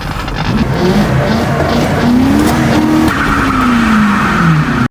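Mercury Grand Marquis's 4.6-litre V8 revving hard for a burnout on a freshly welded rear differential, with the rear tires squealing as they spin. The engine note climbs about a second in, holds, then drops near the end.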